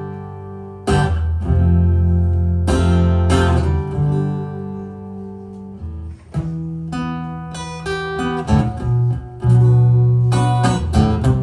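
Acoustic guitar playing alone: strummed chords, then sparser single picked notes from about six seconds in, then strumming again near the end.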